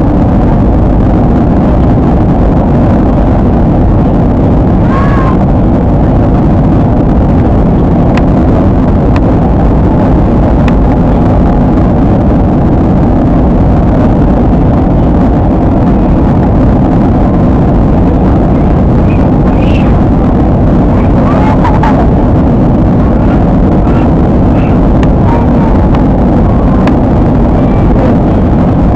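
Steady, loud, low rumble of a jet airliner's cabin in flight, the engine and airflow noise unchanging throughout.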